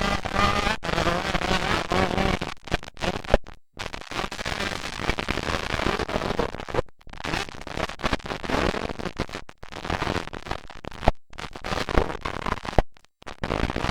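125cc motocross dirt bikes racing, engines revving up and down, recorded with crackling distortion. The sound cuts out completely for brief moments several times.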